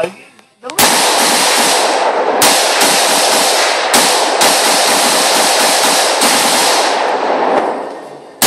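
Rifle fire in quick succession at a Tannerite-rigged target, the shots and their echoes running together into a continuous loud din. It starts about a second in and dies away near the end.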